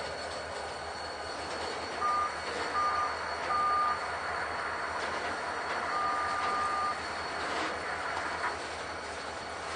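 Freight train rolling by, with a steady noise of wheels on the rails. Over it come short high tones: three brief ones about two to four seconds in, then a longer one about six seconds in.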